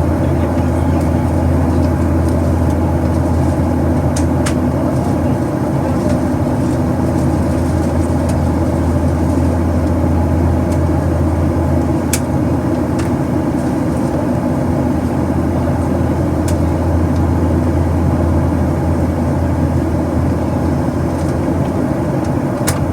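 Steady cabin noise inside a Boeing 737-800 in its climb: the constant drone of the CFM56 engines and rushing air, with a strong low hum and a few faint ticks.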